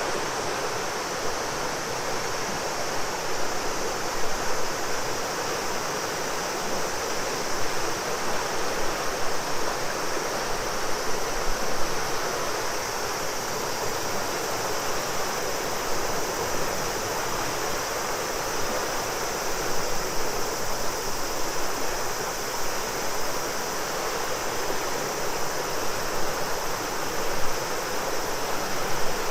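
A broad river flowing steadily, with a continuous high drone of cicadas above the rush of water.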